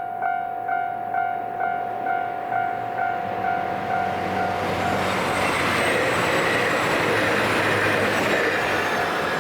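Railway level-crossing alarm ringing a two-tone strike a little over twice a second. From about three seconds in, a KiHa 261 series diesel express train comes through the crossing, and its rushing noise grows until it drowns out the alarm in the second half.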